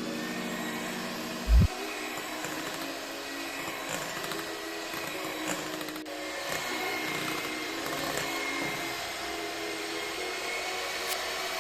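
Electric mixer running steadily, its beaters whipping cream with condensed milk until it is just mixed. A short, loud low thump comes about one and a half seconds in.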